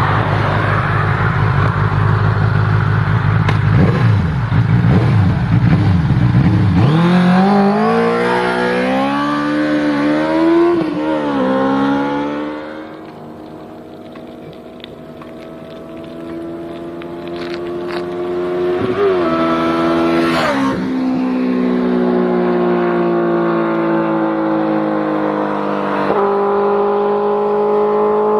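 Benelli 600's inline-four engine and exhaust: a low rumble, then quick revs rising and falling in pitch, a few seconds quieter near the middle, then the engine held at high revs with its pitch gliding slowly and stepping up near the end.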